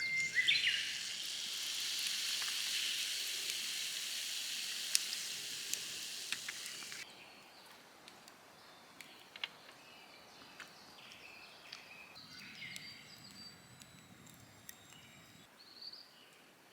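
Food sizzling in a hot frying pan over a campfire, a steady hiss that cuts off abruptly about seven seconds in. After that only faint scattered clicks and crackles remain.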